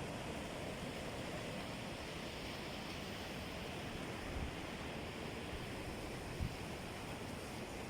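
Steady wash of sea surf with wind buffeting the microphone, and one brief low bump about six seconds in.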